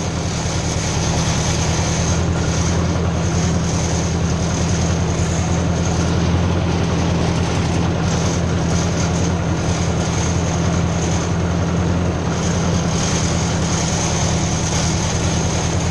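Ford 600 tractor engine running steadily as the tractor drives along, a constant low drone.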